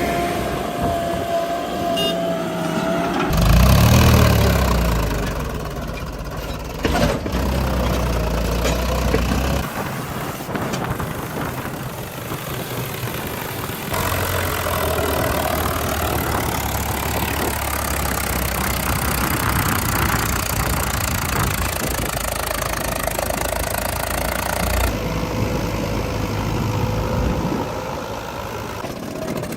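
Heavy diesel engines of a backhoe loader and tractors running, with one loud rev about four seconds in. The engine sound changes abruptly a few times.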